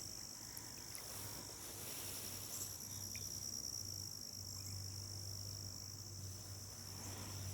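Insects trilling steadily at a high pitch, with a faint low steady hum underneath.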